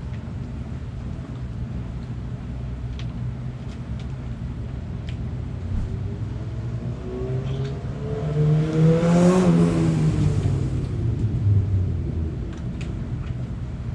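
A motor vehicle drives past, its engine and tyre noise swelling to a peak about nine seconds in and then fading, its pitch rising and then dropping as it passes, over a steady low hum.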